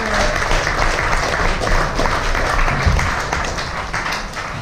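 Audience applauding, a dense round of clapping that starts suddenly and tails off slightly near the end.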